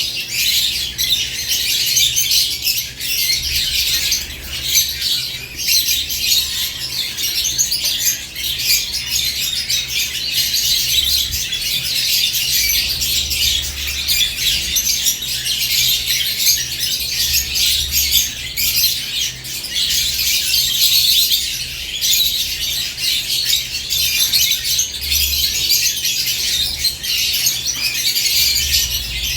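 A group of caged lovebirds chirping and chattering continuously: a dense, high-pitched twittering without pauses.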